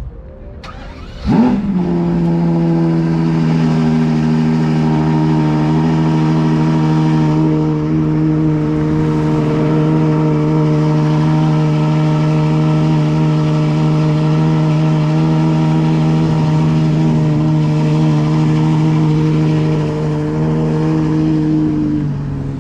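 Car engine sweeping quickly up in pitch about a second in, then held at a steady droning pitch, dropping a little near the end.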